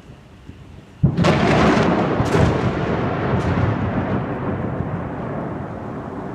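Thunder: a sudden loud crack about a second in, crackling for a second or so, then a long rolling rumble that slowly fades.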